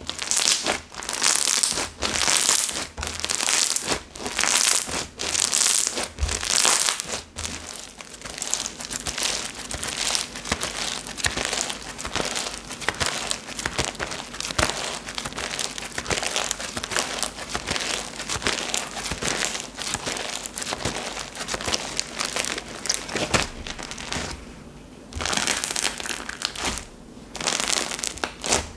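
Hands squishing and stretching slime, a crackly, popping squelch, with distinct squeezes about once a second at first, then continuous kneading with a brief lull near the end.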